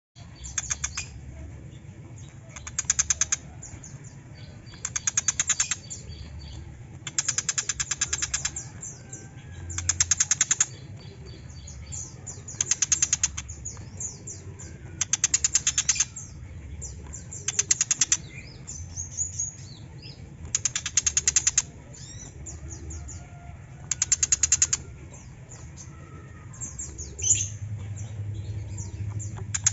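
Tiger shrike (pentet macan) giving loud, harsh chattering rattles, each a rapid run of clicks lasting about a second, repeated every two to three seconds. Thin, softer chirps fall between the rattles.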